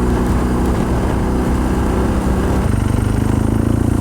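2007 BMW R1200GS's boxer twin engine running steadily under way. The engine note shifts about two-thirds of the way through.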